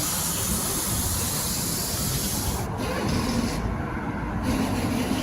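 Steady rushing road and wind noise of a moving vehicle.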